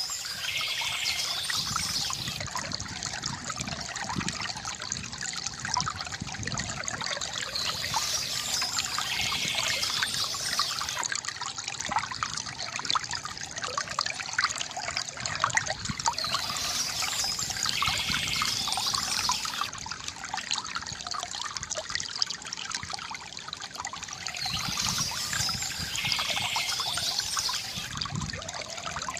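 Water from a bamboo fountain trickling and splashing steadily into a basin, with a brighter hissing layer that swells and fades about every eight seconds.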